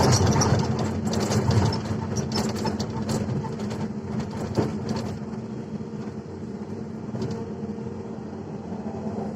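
Heavy machinery diesel engine running steadily under load, with a sudden loud start and scattered clanks and knocks through the first half, typical of an excavator working and loading a dump truck.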